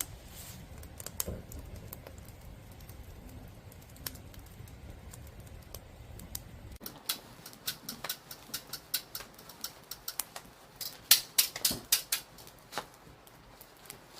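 Wood campfire crackling and popping in irregular sharp snaps. The snaps are sparse at first over a low steady hum, then come thick and loud from about halfway on.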